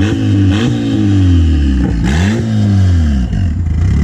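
Turbocharged Mazda Miata four-cylinder engine revving up and down while driving. Its pitch rises and falls in several swells, drops sharply about two seconds in, then climbs again, and runs lower and steadier near the end.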